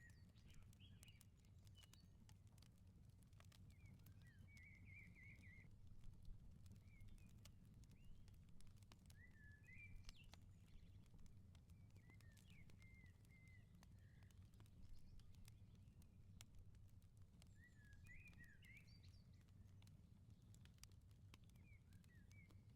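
Outdoor wood fire crackling softly with scattered small pops over a steady low rumble, while songbirds twitter in short phrases every few seconds.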